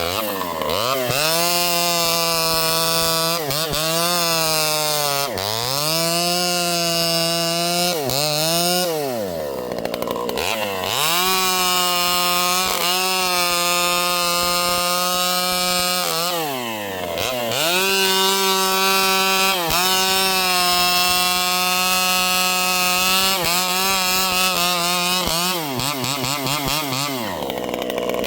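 Vintage Pioneer P51 two-stroke chainsaw with a pipe, running at high revs while cutting wood. It drops back briefly several times, about five, ten and seventeen seconds in and near the end, then revs up again for the next cut.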